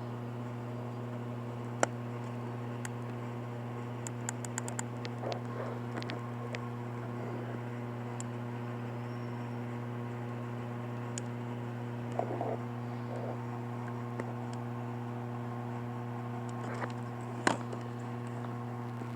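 Electric fan running with a steady hum, while a few sharp clicks and taps of handling come through, one about two seconds in and the loudest near the end.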